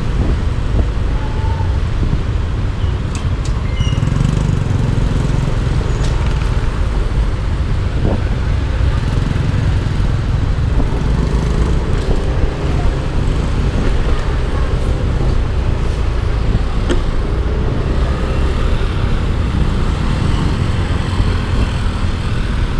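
Riding noise from a Yamaha Aerox 155 single-cylinder scooter: a loud, steady low rumble of wind and engine, with road traffic around it.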